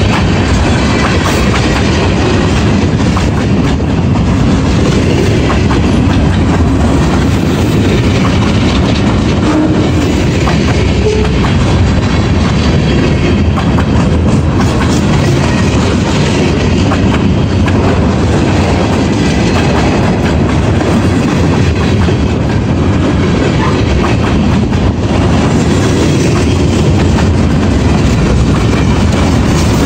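Freight train cars rolling through a grade crossing at close range: a steady, loud noise of wheels clattering over the rail joints.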